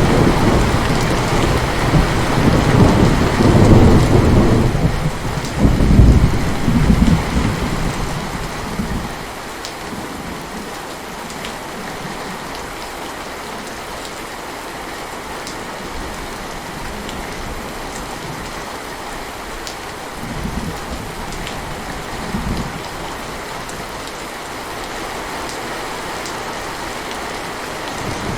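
Steady heavy rain with thunder rolling through the first part, dying away about a third of the way in. Then the rain goes on alone, with a couple of short, faint rumbles about two-thirds through.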